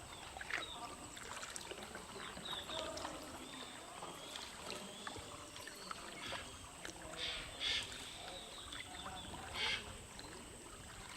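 Kayak paddles dipping and splashing in calm sea water, with a few sharper splashes about seven and nine and a half seconds in.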